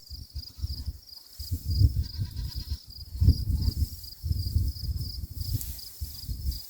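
Uneven low rumbling and thumping from hay being worked on a round bale, with a steady high chirring of crickets behind it. A faint goat bleat comes about two seconds in.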